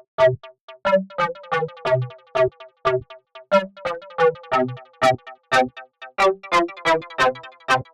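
Synthesized plucked club bass in Arturia Pigments, built from a single sine wave and played as chords through the synth's chord feature. Short plucked chords come about three a second in a rhythmic pattern, with delay echoes trailing each note.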